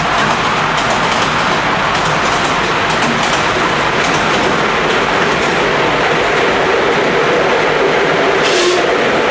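Miniature railway train running through a tunnel: a steady, loud rumble of the wheels on the rails, with a short burst of hiss near the end.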